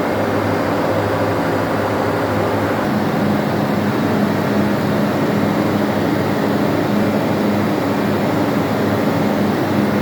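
Loud, steady engine-room machinery drone with a low hum, the constant background around a ship's lube oil purifier; the hum's pitch changes about three seconds in.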